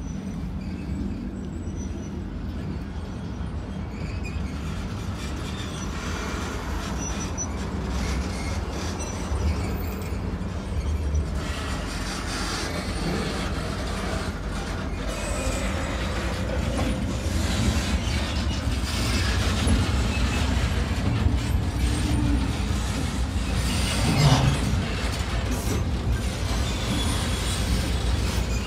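Freight train of boxcars rolling past: a steady low rumble of wheels on rail with frequent sharp clicks, growing louder as it goes. One louder knock stands out about three-quarters of the way through.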